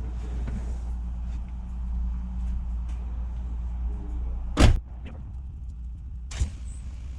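A car running steadily, with a door slamming shut about four and a half seconds in and a lighter knock near the end.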